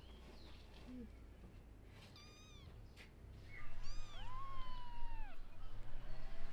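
Newborn kittens mewing: a short high mew about two seconds in, then two overlapping, longer mews about four seconds in. A low hum comes in just before them and stays underneath.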